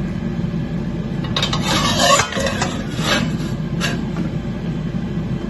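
Kitchen utensil scraping and rubbing against a metal pan for about a second, then two short clinks, over a steady low hum.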